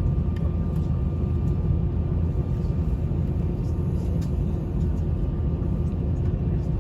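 Steady low rumble and hum inside an Airbus A320's passenger cabin after arrival, with a faint steady whine above it and a few faint clicks.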